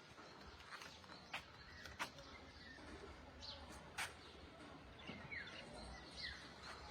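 Faint outdoor ambience with a few short falling bird chirps and scattered light clicks, like footsteps.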